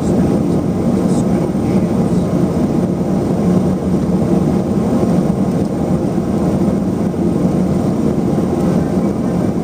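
Cabin noise inside a Let L-410 Turbolet: its twin turboprop engines and propellers running loud and steady.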